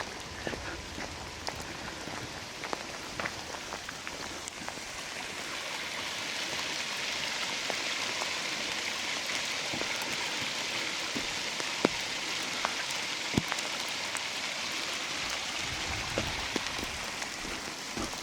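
Rain falling in the forest: a steady hiss that swells a few seconds in and eases near the end, dotted with the sharp ticks of single heavier drops.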